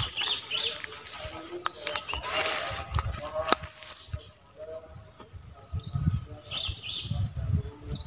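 Small birds' high, hooked chirps repeating every second or so, over rustling and low thumps that grow stronger in the second half.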